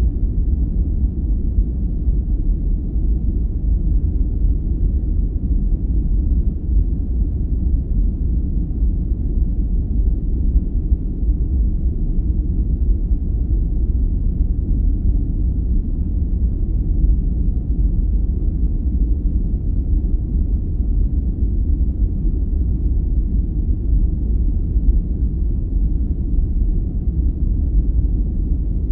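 Steady, deep rumbling noise of a sleep-aid noise track, even and unbroken, with its weight in the low end and almost no hiss.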